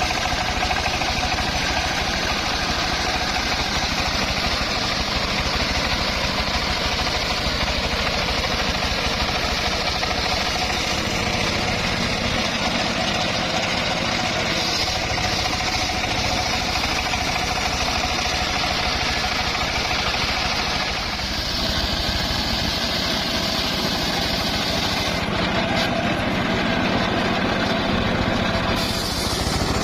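Engine-driven circular sawmill running steadily, with a fast low engine throb and a steady hum throughout; the sound shifts slightly about two-thirds of the way in.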